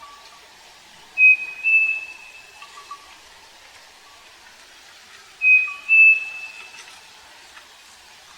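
Striped cuckoo (saci) singing its clear whistled song twice, about four seconds apart: each phrase is two pure notes, a short one followed by a slightly higher, longer one. Faint notes of another bird sound lower down.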